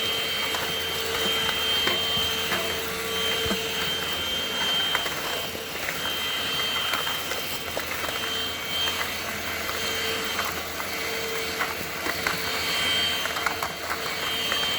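INSE N-5 cordless stick vacuum running steadily on low speed with a high whine, scattered light clicks as it picks up leaves and pine needles.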